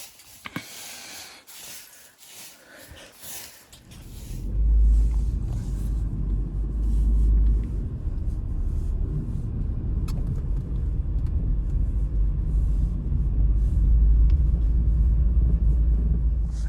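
Soft footsteps, then a loud, deep rumble sets in about four seconds in and carries on, swelling and easing unevenly.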